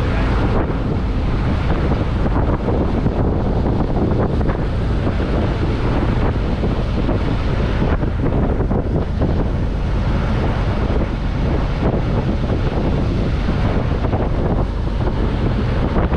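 Heavy wind buffeting the microphone from riding in a moving open vehicle: a steady, loud rumbling rush.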